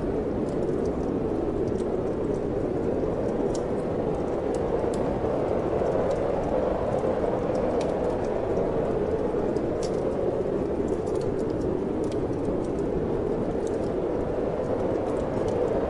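Steady wind blowing, with a wood fire in a fireplace crackling: scattered sharp pops and snaps at irregular intervals over the even rushing sound.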